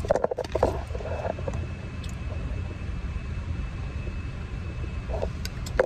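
Steady low rumble of a car's engine idling, heard from inside the cabin, with a faint steady high whine over it. A few short sounds cluster in the first second and a couple more come near the end.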